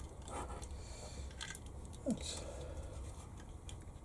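Quiet handling of small plastic and wiring parts of a radio-controlled car: a few light clicks and rustles, with a brief falling squeak about two seconds in.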